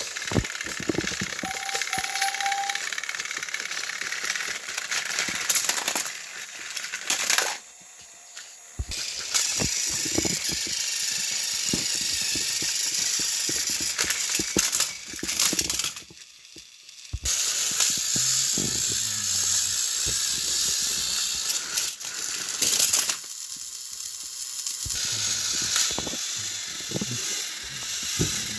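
Motorized toy train engines running, their small motors and gearboxes whirring with a clicking rattle. The sound stops briefly a few times and starts again.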